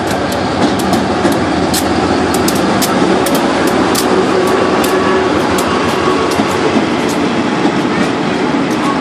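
Diesel locomotive passing and then its passenger carriages rolling by close at hand: a steady loud rumble with a run of irregular sharp clacks from the wheels crossing rail joints.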